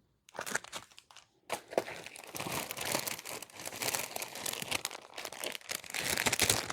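Crinkling and rustling of packaging being handled, an irregular run of crackles with a short lull about a second and a half in.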